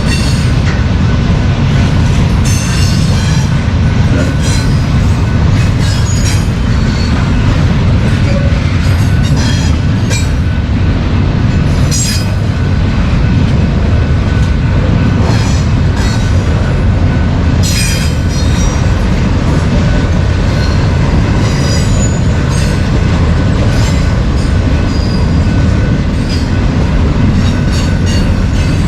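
BNSF freight train cars rolling past close by: a loud, steady low rumble of wheels on rail, with repeated short, high-pitched wheel squeals and clicks throughout.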